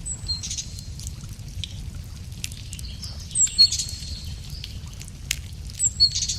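A songbird sings the same short, high whistled phrase three times, about every three seconds. Under it a wood fire crackles with scattered small snaps.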